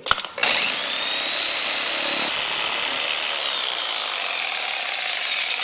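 A power saw cutting steadily, a loud even rasp with a faint high motor whine, starting just after a click.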